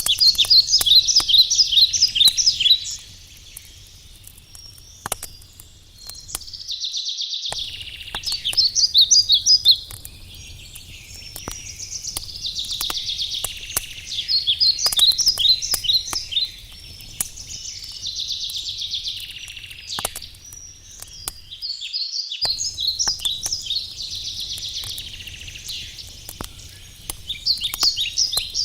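A songbird sings short phrases of rapid trilled notes every few seconds, the loudest sound, while a wood campfire crackles with scattered sharp pops.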